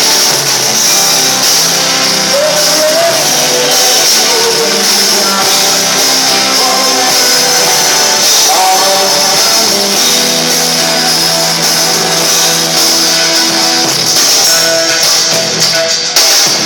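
Live rock band playing with singing, recorded from the audience: loud and harsh, with almost no bass.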